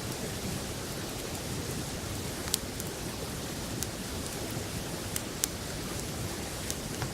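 Open wood campfire crackling, with a handful of sharp pops scattered through it, the loudest about two and a half seconds in, over a steady rushing noise from the river.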